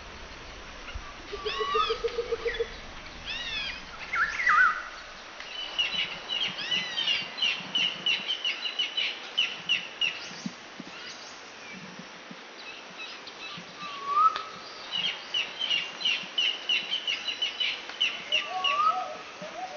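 Songbirds calling and singing: sweeping chirps, a short low trill about two seconds in, and two long runs of rapid repeated high notes, the first a little over halfway through the first half and the second in the last third.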